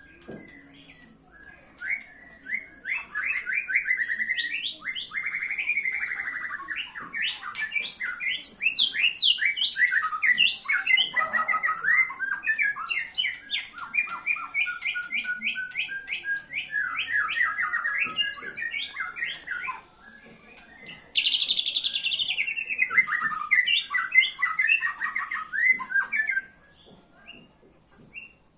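White-rumped shama (murai batu) singing a long, varied song of rapid repeated notes, trills and sweeping phrases, pouring out its learned repertoire. The song breaks off for about a second two-thirds of the way through, resumes loudly, and stops shortly before the end.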